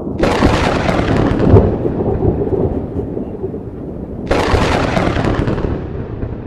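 Two loud sudden crashes about four seconds apart, each fading into a long low rumble, played as an intro sound effect.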